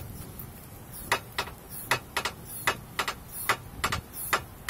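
Sharp, clicking knocks from the front torsion-bar suspension of a Great Wall Hover H5 as the body is rocked: about ten clicks, coming in pairs, one pair with each rock. It is a knock whose cause is not yet known.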